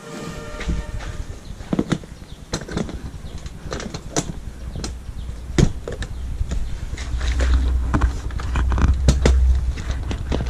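Honda Winner 150's single-cylinder engine idling with a low, steady rumble that grows louder in the second half, under a run of sharp clicks and knocks from the seat being handled and shut.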